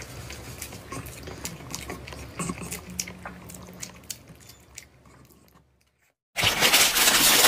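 Close-miked eating sounds of boiled egg being chewed, with soft wet mouth noises and small clicks, fading away to near silence about six seconds in. Near the end a much louder hissing noise cuts in abruptly.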